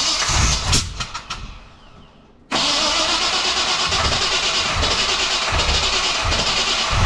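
Chevrolet 350 small-block V8 cranking and firing unevenly, then, after a sudden jump about two and a half seconds in, running loud and steady with its ignition timing not yet set right.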